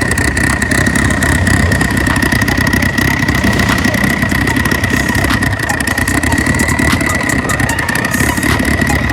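Performance car engine idling steadily with a deep exhaust rumble and a steady high-pitched whine over it.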